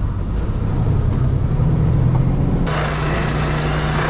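Mercedes-Benz Actros L truck's diesel engine running with a steady low hum. About two-thirds of the way in, a broad hiss comes in abruptly over the engine.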